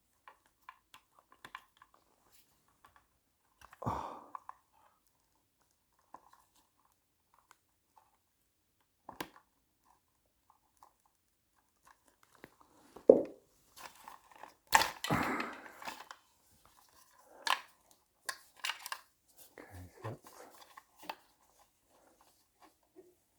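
Scattered clicks and scrapes of a screwdriver prying a plastic wiring clip loose on a motorcycle's wiring loom. There is a sharp knock a little past halfway, followed by a couple of seconds of crinkly rustling and a few more clicks.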